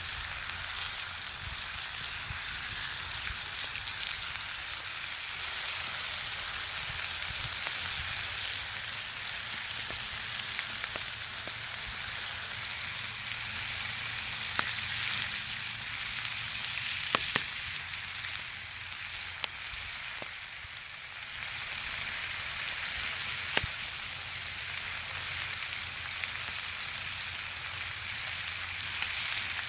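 Bacon sizzling over a fire: a steady high hiss of frying fat, with occasional sharp pops.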